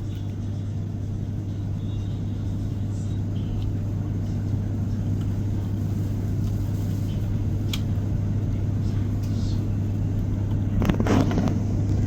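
Diesel multiple unit's underfloor engine idling: a steady low drone with a constant deep hum, growing slightly louder, with a brief voice-like sound near the end.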